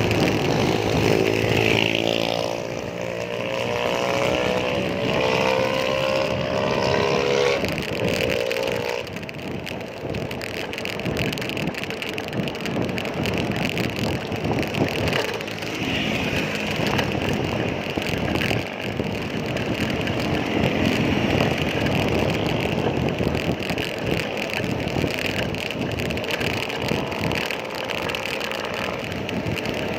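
Road traffic noise on a busy city road, heard from a moving bicycle. A nearby vehicle's engine hums for about the first nine seconds, then an even rush of traffic and wind noise continues.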